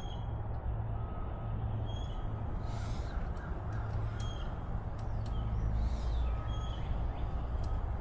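Short bird calls recurring every second or two over a steady low outdoor rumble, with a few faint clicks.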